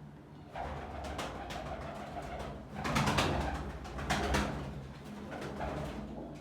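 Pigeons cooing in a pigeon loft, with the low cooing going on steadily and swelling louder about three seconds in, mixed with sharp flutters and scratches.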